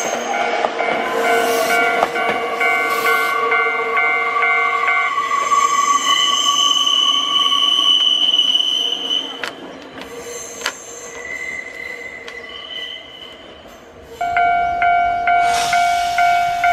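Nankai 2300-series trains running through the station on the curved mountain track, their wheels squealing in long high tones. A level-crossing warning bell rings in a steady pulse about twice a second at the start, stops after about five seconds, and starts again loudly near the end.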